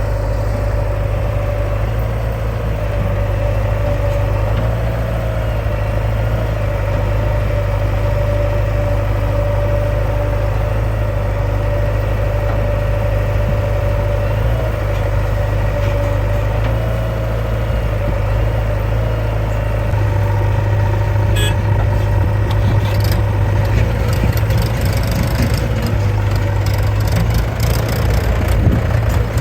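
Diesel engine of heavy earthmoving equipment running steadily. Scattered knocks and clatter join in over the last third, and the engine gets a little louder.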